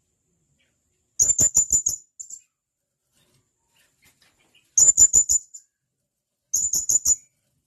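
Blue-crowned hanging parrot (serindit) giving sharp, high-pitched calls: three quick runs of about five clipped notes each, with a short extra call after the first run.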